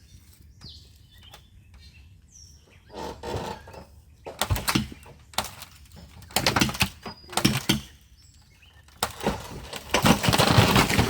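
An old chicken coop being pushed over: a series of cracks and crashes as it gives way, the loudest and longest collapse near the end. Faint bird chirps in the first seconds.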